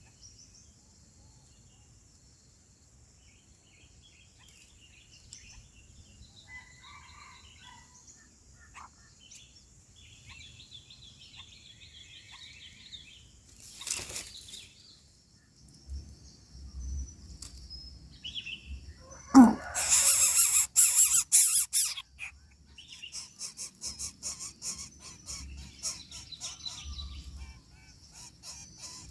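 Bird sounds at a coucal nest. Faint scattered chirps come first. About two-thirds of the way in there is a sudden loud burst of rapid rasping calls lasting about two seconds, followed by quieter rapid ticking.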